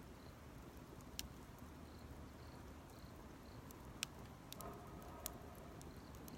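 Campfire burning quietly, with a few sharp crackles of burning wood, the loudest about four seconds in.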